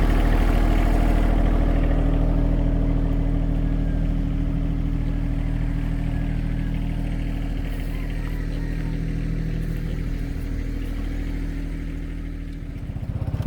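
An engine running steadily at a constant speed, slowly getting quieter. Near the end a faster pulsing engine sound starts.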